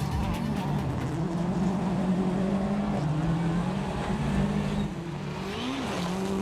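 World Rally Car's turbocharged four-cylinder engine running hard on a rally stage, its pitch climbing and dropping several times with gear changes and lifts.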